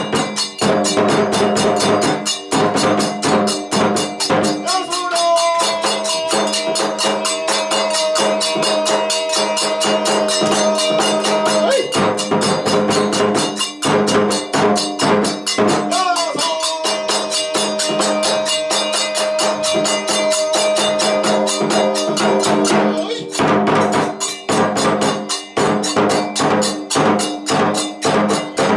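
Kagura ensemble music: fast, steady drum and hand-cymbal beats run throughout, while a flute holds two long notes, each sliding up into the note.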